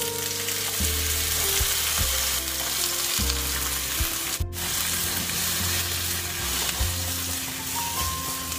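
Sliced onion and green chilies sizzling in hot oil in a nonstick wok, a steady dense hiss, stirred with a silicone spatula near the end. The hiss breaks off for an instant about halfway, with soft background music underneath.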